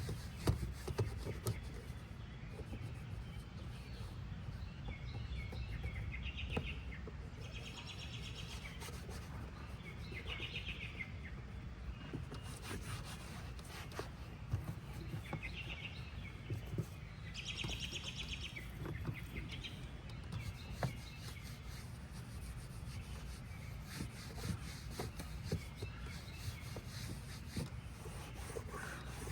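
Birds chirping over a steady low background rumble, in a few separate phrases that include two rapid trills about ten seconds apart, with scattered light clicks.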